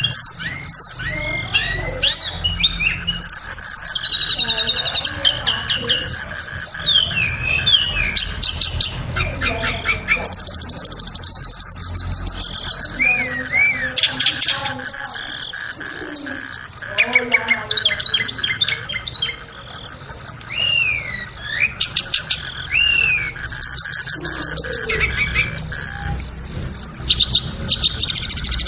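Recorded song of a tledekan songbird, a run of varied high whistled phrases, fast trills and quick chip series with short gaps between them. A faint steady tone sits underneath.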